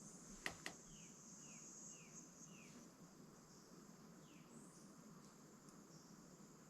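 Faint rainforest ambience: a steady high insect hiss, with a bird giving a series of four short falling whistled notes and later one more. Two sharp clicks come about half a second in.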